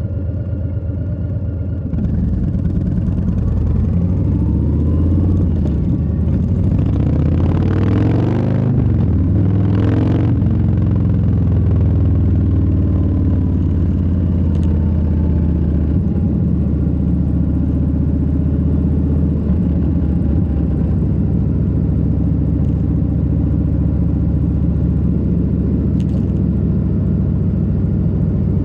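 Harley-Davidson Low Rider S's Milwaukee-Eight 117 V-twin running while the bike cruises, heard from the rider's seat. The engine note steps up about two seconds in, and two brief rushing swells rise and fade about a third of the way through before the engine settles back to a steady cruise.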